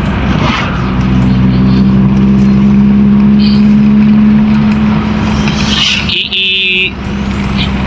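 Toyota Corolla EE100's 2E four-cylinder engine running at a steady speed while the car is driven, a steady low engine drone. About six seconds in the drone briefly drops away under a short high-pitched tone.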